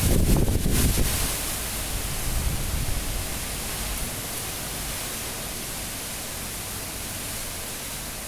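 Cyclone-force wind rushing and gusting, louder in the first second and then settling into a steady rush.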